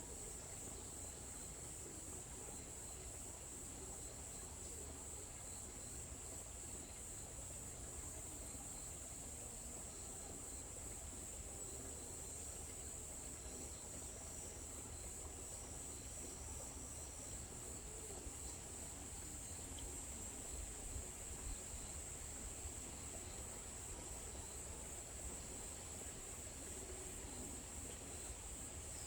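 A steady, high-pitched chorus of insects that does not let up, with a faint low rumble underneath.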